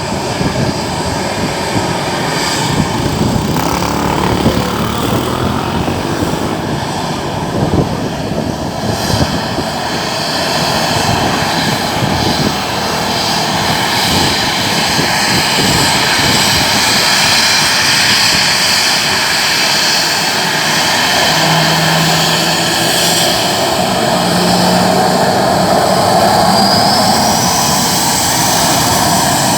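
Airliner's engines running close by: a loud, steady rush with a high whine that grows louder over the second half.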